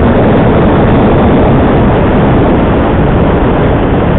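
Motorcycle on the move: loud, steady wind rush and road noise on the rider's microphone, with the engine underneath.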